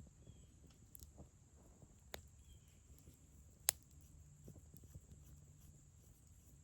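Small twig kindling fire crackling faintly, with a few sharp pops.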